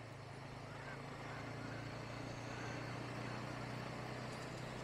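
Single-cylinder engine of a Bajaj Pulsar N160 motorcycle running under way, a steady low hum that grows slightly louder, over road and wind noise.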